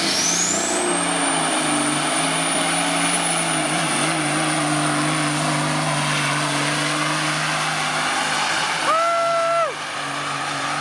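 Turbocharged diesel pulling engine running hard under load, its turbo whistle rising over the first second to a steady high-pitched whine. A short horn blast sounds about nine seconds in.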